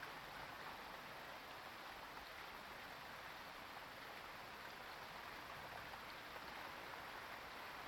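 Faint, steady rushing background noise with no distinct calls or events.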